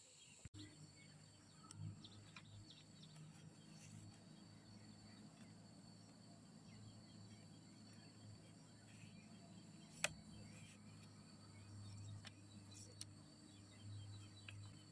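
Faint rural ambience: a steady high insect trilling with a low hum beneath, scattered faint ticks, and one sharp click about ten seconds in.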